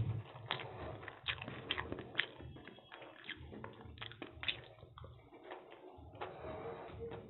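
Close-miked mouth sounds of a person eating egg chow mein by hand: wet chewing with irregular lip smacks and sharp clicks as mouthfuls of noodles are taken.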